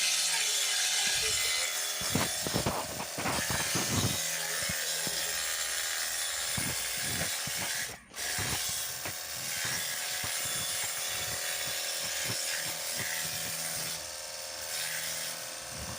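A LARLEX 48V cordless pressure washer gun spraying a jet of water onto a vehicle: a steady hiss of spray. The spray cuts out for an instant about halfway through, then starts again.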